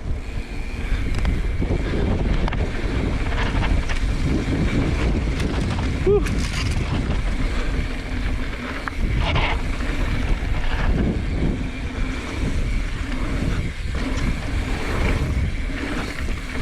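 Gusty wind buffeting the microphone over the rumble and rattle of a mountain bike running fast down a dirt trail, with occasional knocks from bumps.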